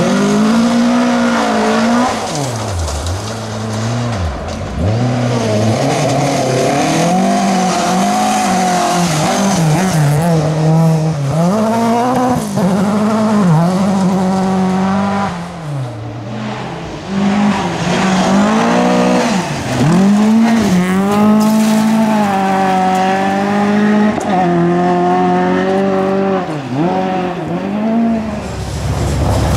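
Volvo 740 rally car's engine at full throttle, its pitch climbing and dropping over and over as the driver accelerates, shifts and lifts between corners. Near the end the engine note gives way to a low rumble.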